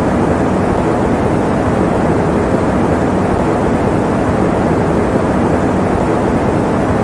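Electric fan running: a steady, unchanging rush of air, deep and full, with little hiss at the top.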